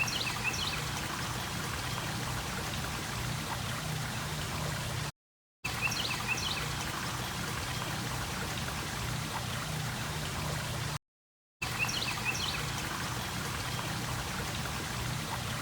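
Steady running water like a stream, with a few short high chirps near the start of each repeat. The same five-second stretch of sound plays three times, with a half-second of dead silence between repeats.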